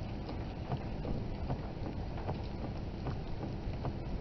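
Wind rumbling on the microphone outdoors during a tornado, with scattered light ticks.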